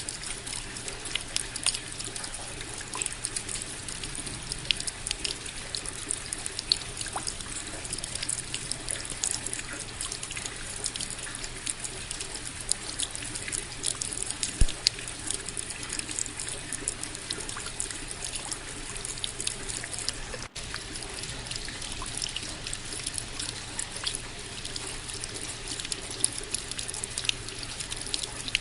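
Steady rain: an even hiss of falling water with many sharp individual drop hits. It breaks off for an instant about two-thirds of the way through.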